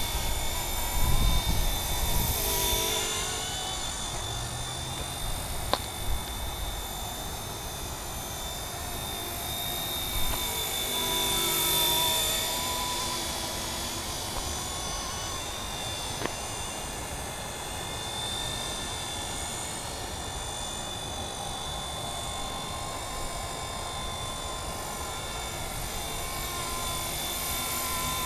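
Radio-controlled scale MD 500 model helicopter flying, its motor and rotors giving a steady high whine that drifts slightly up and down in pitch. There is a low rumble in the first few seconds.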